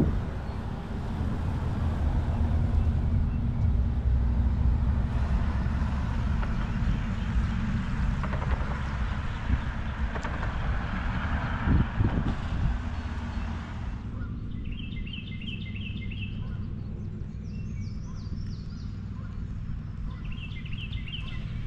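Car driving, with steady road and engine noise that drops away about two-thirds of the way in. A low engine hum is left, and birds chirp in short high phrases twice near the end.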